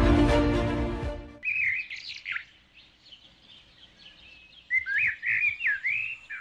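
Intro theme music fades out over the first second and a half. Then a bird chirps, a few short calls that rise and fall in pitch, a pause of about two seconds, and a quick run of chirps near the end.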